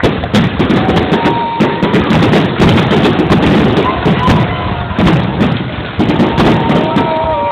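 Fireworks going off in quick succession: many sharp bangs and crackles over a dense rumble, with a few short whistling tones.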